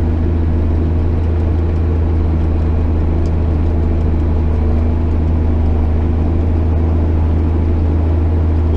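JCB Fastrac 8250 tractor's diesel engine running steadily, a constant low, even drone.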